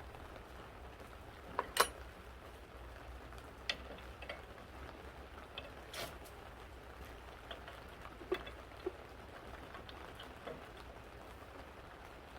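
A few sharp, irregular clicks and light knocks, like tools and parts being handled during mechanical assembly, over a low steady hum; the loudest pair comes just under two seconds in.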